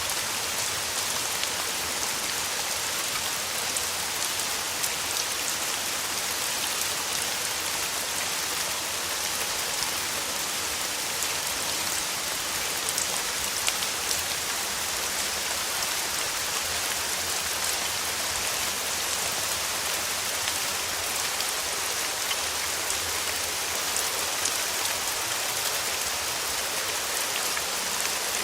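Steady rain falling: an even hiss sprinkled with many small ticks of single drops, with no let-up or change.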